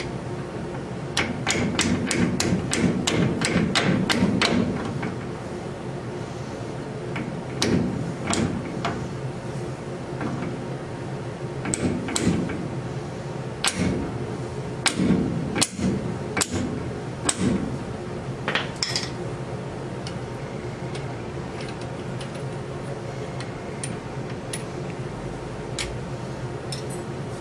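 A quick run of sharp knocks, about four a second for some four seconds, then scattered single knocks and clanks, over a steady low hum.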